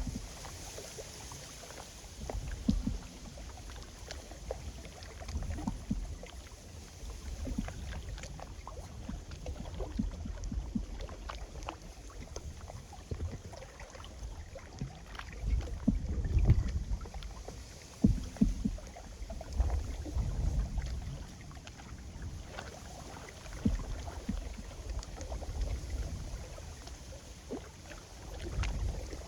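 Strong wind gusting on the microphone in uneven swells, with small waves lapping and slapping at the lakeshore.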